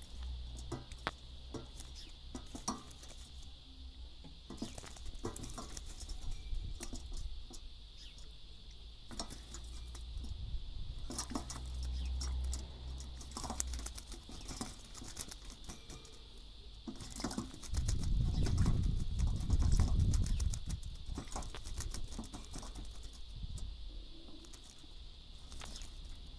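Young jackdaw bathing, splashing and fluttering in water with quick, irregular patters and flicks. About 18 seconds in comes a louder, lower rumble lasting a couple of seconds.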